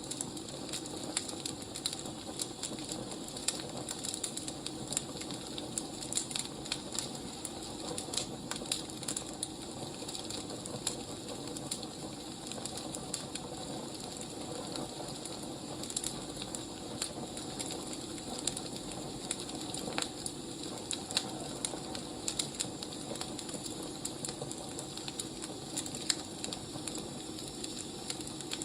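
Wood fire crackling steadily, with irregular sharp pops and snaps over a soft continuous hiss.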